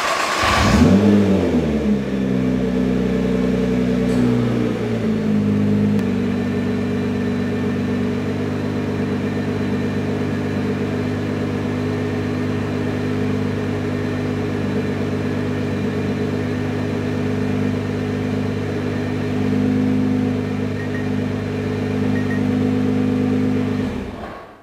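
Nissan GT-R's twin-turbo 3.8-litre V6, remote-started from a phone app with nobody in the car. It catches and flares in the first second or two, then settles to a steady idle that steps down about six seconds in. Near the end it is switched off from the app and cuts out suddenly.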